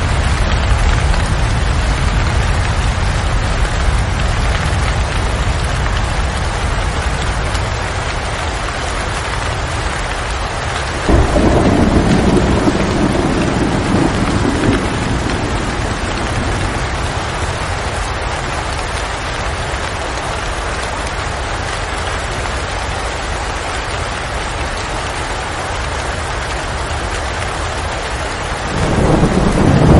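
Steady rain falling, with thunder rumbling twice: once about a third of the way in, lasting a few seconds, and again near the end.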